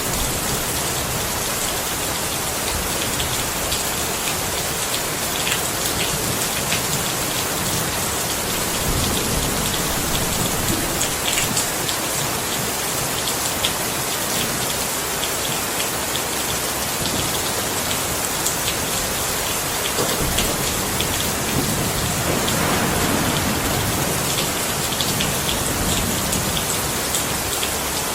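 Steady rain, a dense even hiss with scattered individual drop ticks. A low rumble swells softly about a third of the way in and again near three-quarters through.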